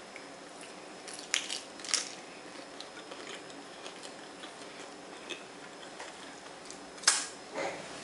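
Eating a lettuce-wrap taco: crisp lettuce leaves crunching as it is bitten and chewed, a cluster of sharp crunches about a second and a half in and a single loud one near the end, with faint mouth clicks between.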